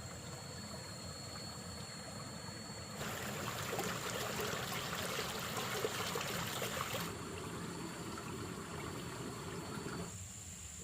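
Water pouring and splashing for about four seconds, starting about three seconds in, over steady background noise with a thin high-pitched whine.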